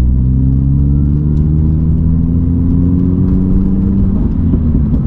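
Car engine pulling under acceleration while driving, its pitch rising steadily for about four seconds and then breaking off, over a continuous low road rumble.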